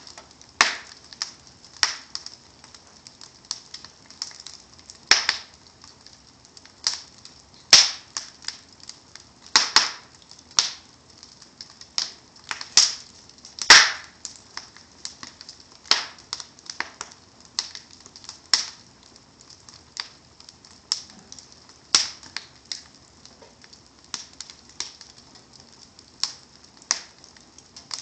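Wood fire in a fireplace crackling, with sharp, irregular pops about one or two a second, some much louder than others.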